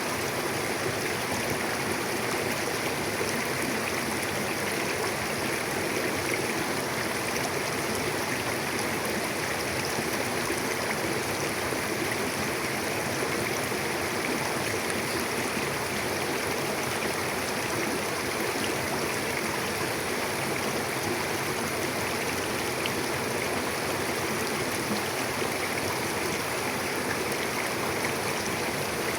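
Mountain river flowing: a steady, even rush of water over rocks.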